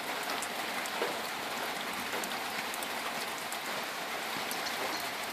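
Steady rain falling, with the patter of many small drops.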